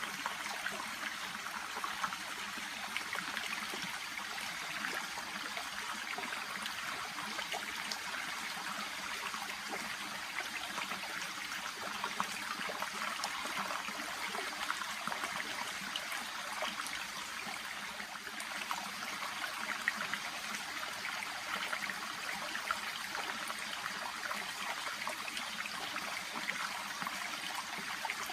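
Shallow brook babbling and trickling steadily, a continuous fine splashing with no breaks.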